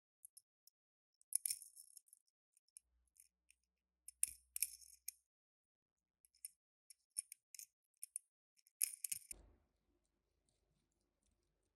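Hands handling small toy-car packaging: irregular crisp clicks and crackles in clusters, about a second in, around four to five seconds in and near nine seconds, then only faint ticks.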